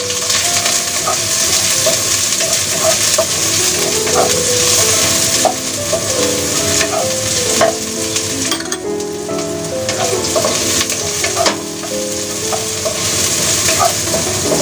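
Sliced shallots sizzling in hot oil in a stainless steel wok, stirred with a wooden spatula that scrapes and knocks against the pan now and then.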